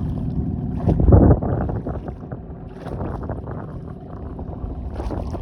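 Sea Pro outboard motor running at low throttle, a steady hum, while it is being run in. Wind buffets the microphone, with a brief loud rush about a second in.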